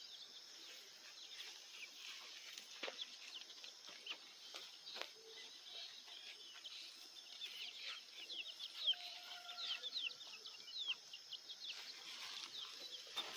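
Chickens clucking and chicks peeping faintly, with many short high peeps that grow more frequent in the second half. A few soft knocks come through a few seconds in.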